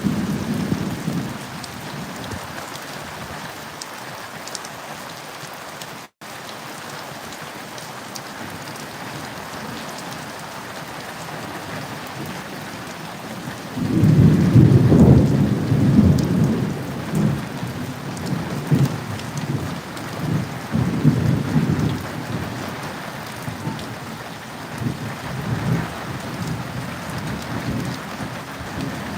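Steady rain falling in a thunderstorm. A rumble of thunder fades away in the first second or so, and about halfway through a loud thunder roll breaks out and keeps rumbling, swelling and easing, to the end. The sound cuts out for an instant about six seconds in.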